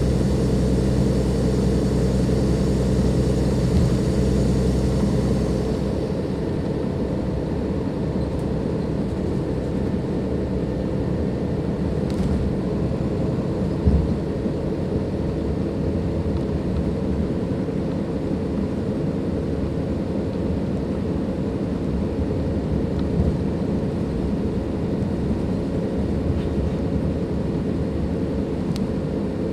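Cummins ISLe diesel engine of a Dennis Enviro 500 double-deck bus running, with a high turbo whine over the engine note. About six seconds in, the engine eases off and the whine fades to a lower, steady run. A single knock comes about midway.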